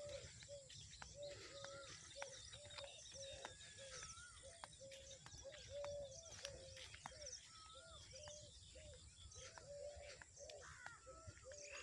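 Faint birdsong: one bird repeats a short low note over and over, two or three times a second, while other birds give higher wavering calls over it.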